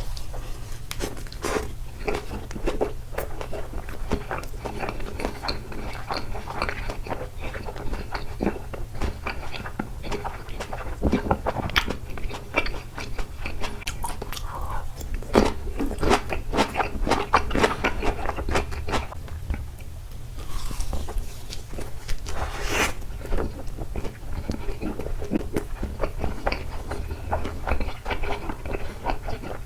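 A person chewing and biting takoyaki close to the microphone: wet, sticky mouth sounds with many small irregular clicks and smacks, and a short hissy rustle about three quarters of the way through.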